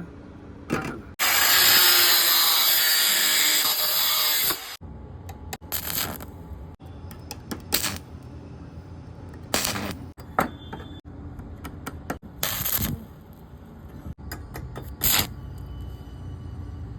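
Electric welding of steel parts: one continuous weld of about three and a half seconds near the start, then a series of short tack welds, each under a second.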